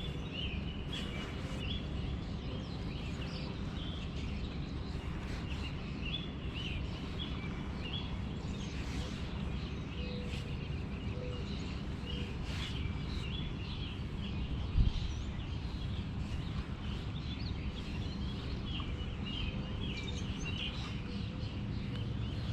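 Small birds chirping over and over above a steady low rumble of background noise, with a single short thump about fifteen seconds in.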